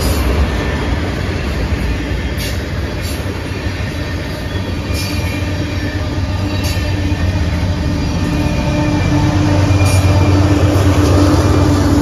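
Loaded tank cars of a freight train rolling past at close range, a steady rumble with sharp wheel clicks over the rail joints every second or two. Near the end a deeper rumble and a steady drone grow louder as a Canadian Pacific GE ES44AC diesel locomotive, placed mid-train, draws near.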